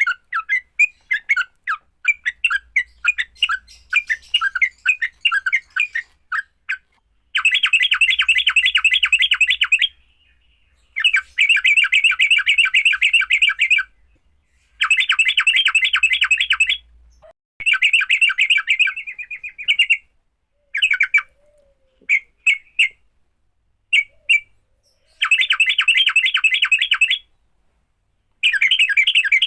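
Yellow-vented bulbul (trucukan) giving its agitated fighting call: loose strings of sharp chattering notes at first, then fast rattling trills in bursts of two to three seconds with short pauses between them.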